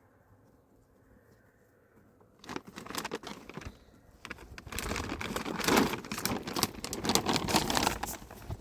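Plastic sheeting rustling and crinkling as it is handled, starting about two and a half seconds in and growing louder and denser from about five seconds.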